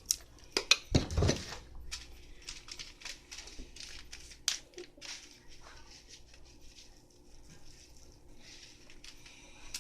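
Light crinkling and pattering clicks from handling a packet of small foam beads and adding them to slime. There are louder clicks and a couple of low thuds in the first second and a half, then only sparse faint clicks.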